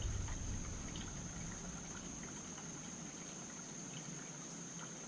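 Quiet room tone with a steady faint high-pitched whine and a few faint light ticks.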